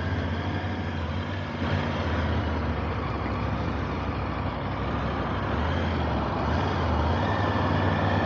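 Motorcycle engine running at a steady pace under way, a low hum under a continuous rush of wind and road noise.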